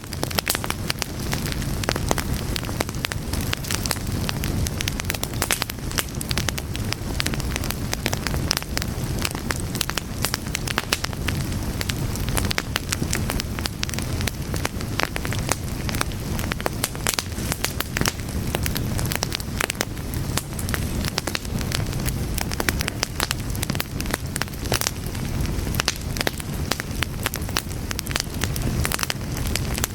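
A fire burning steadily, with dense, irregular crackles and sharp pops over a low rumble.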